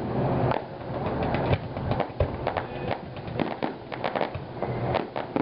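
Fireworks going off: irregular sharp bangs and crackling pops from aerial shells and low crackling effects, several in a second at times.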